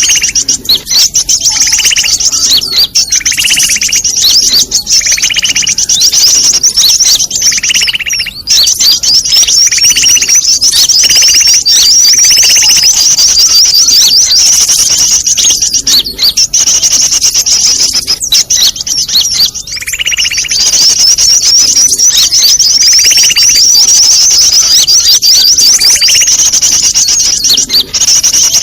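Bird-lure recording of many small birds calling at once: a dense, unbroken stream of rapid high chirps and trills, with a lower call repeating every second or two.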